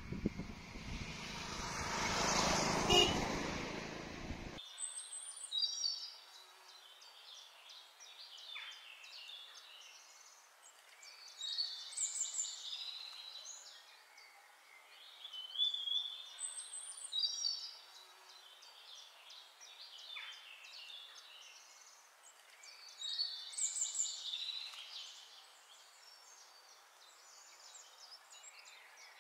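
A rushing noise swells and fades over the first few seconds, then cuts off abruptly. After that a songbird sings a short chirping phrase every few seconds over faint scattered chirps.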